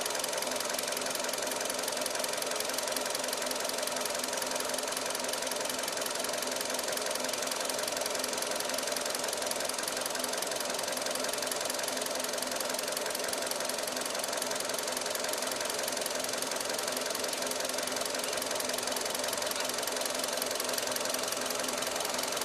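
2013 Hyundai i20's engine running steadily at an even speed, with a fast, even ticking through it.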